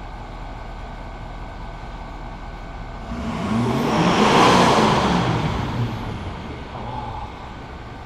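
6.7 L Power Stroke V8 turbodiesel idling, then snapped to full throttle about three seconds in for a free-acceleration smoke-opacity test: the revs climb with a rushing exhaust, hold briefly, then fall back to idle.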